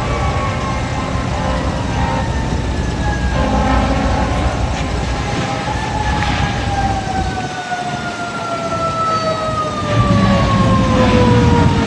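Fire engine siren whose pitch falls slowly over several seconds, over a steady low rumble of engines and wind.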